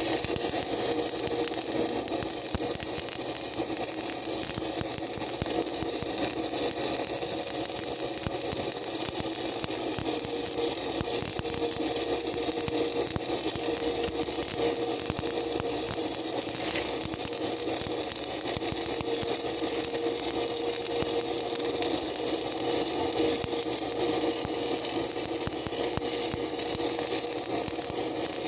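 Stick (shielded metal arc) welding: the electrode's arc crackling and sizzling steadily through one long run, with a steady hum underneath.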